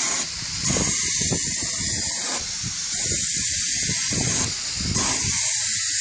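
Headlight clear coat being sprayed in passes: a loud spray hiss that runs about a second and a half to two seconds at a time, broken by short pauses, about three times.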